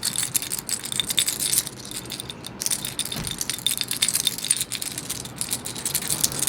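Seashells clinking and rattling against one another as they are handled: a dense run of small, hard, high clicks.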